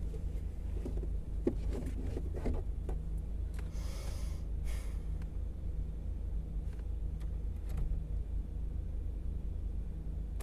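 Cabin sound of a Volkswagen Jetta Clásico with its engine running, a steady low rumble. Small clicks and rustles come in the first few seconds, and two short breathy hisses about four and five seconds in.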